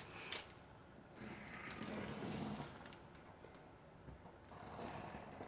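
Faint rustling with a few small clicks from fabric and pattern pieces being handled and cut: two soft stretches, one about a second in lasting over a second, another near the end.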